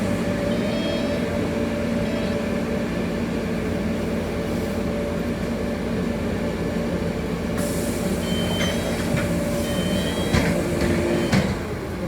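City bus heard from inside the passenger cabin, its drive running with a steady hum while it stands at a stop. Near the end come a hiss, a few short high beeps and two sharp knocks, after which the hum drops.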